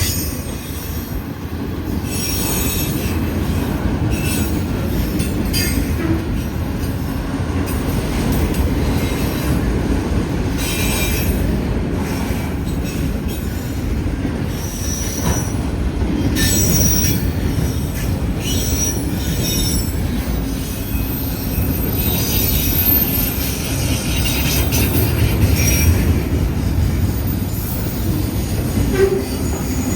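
Freight train cars rolling past with a steady rumble, their wheels squealing with brief high-pitched squeals now and then.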